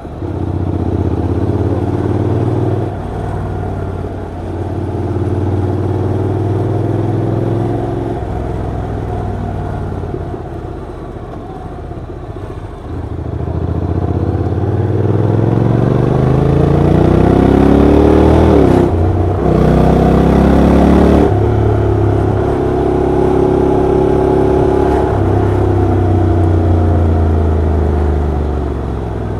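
Honda NC750X DCT motorcycle's parallel-twin engine and exhaust under way. Steady cruising, then revs climb for several seconds about halfway through, drop sharply at a gear change, and settle back to a steady cruise.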